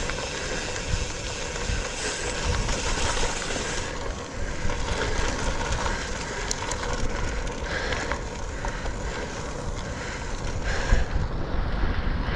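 Steady rolling noise of a Specialized Sirrus X bicycle ridden over wet ground in the rain, with wind buffeting the microphone and occasional bumps.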